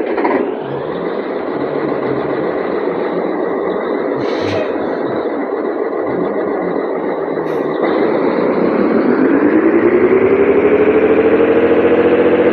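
Scania 113H 360 truck's diesel engine running, its revs rising about eight seconds in and then holding steady at the higher speed.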